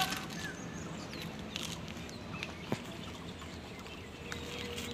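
Quiet outdoor ambience with faint, scattered bird chirps and a single sharp click about halfway through.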